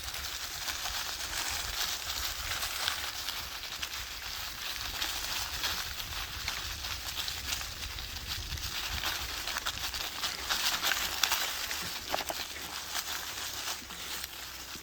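Dry fallen autumn leaves rustling and crackling, with many small crackles throughout and a low rumble underneath.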